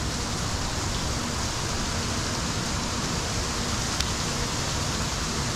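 Rain falling steadily onto the water, an even hiss with no letup. One small tick about four seconds in.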